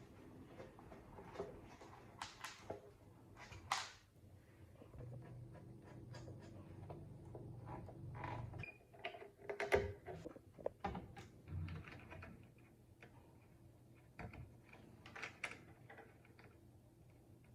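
Scattered light clicks and knocks of small hard parts being handled, the loudest about ten seconds in. A low hum runs from about five seconds in and stops abruptly a few seconds later.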